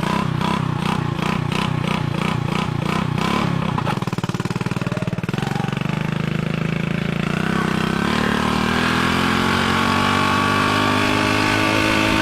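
Small motorcycle engine running just after starting, once its loose spark plug has been tightened. For the first four seconds it surges unevenly, about two or three pulses a second. It then settles into a steady run that slowly rises in pitch.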